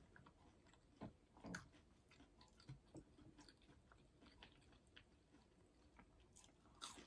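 Near silence with a few faint, scattered chewing and mouth sounds of a person eating.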